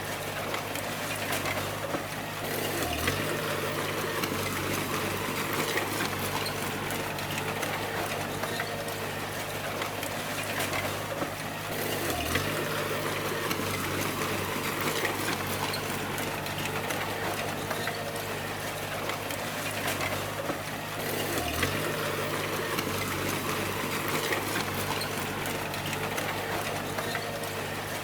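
D20 bulldozer engine working under load with a dense rushing, scraping noise over it. The engine note dips sharply for a moment about every nine seconds, three times in all, as it works in a repeating cycle.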